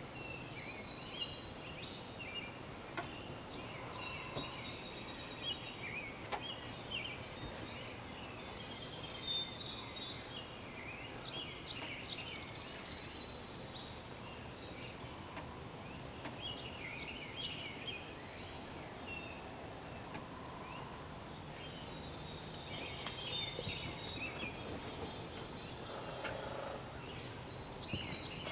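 Several songbirds chirping and singing in a chorus of many short overlapping calls and trills, over a steady outdoor hiss. A few louder clicks come near the end.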